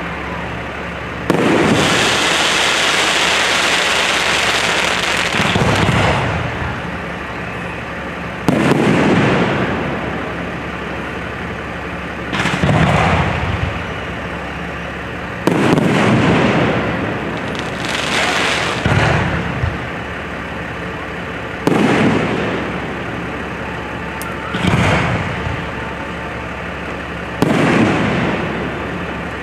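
Fireworks display: about eight aerial shells bursting a few seconds apart, each a sudden bang that dies away over a second or two. The first burst is followed by about four seconds of dense hissing crackle.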